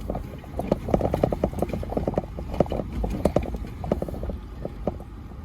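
Toyota 4Runner TRD Pro crawling over loose rock: an irregular run of sharp knocks and clunks from rocks under the tyres and against the underbody, densest about one to three and a half seconds in, over a low steady engine rumble.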